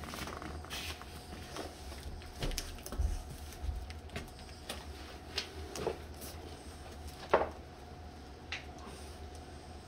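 Scattered knocks, taps and scrapes of a cardboard box being handled and opened, with one sharper knock about seven seconds in.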